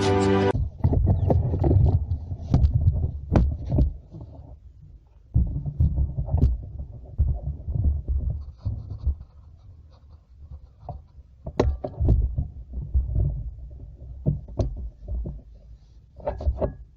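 Irregular low rumbling and thumping, typical of wind or handling noise on a phone microphone, with scattered sharp clicks and knocks. Background music cuts off just after the start.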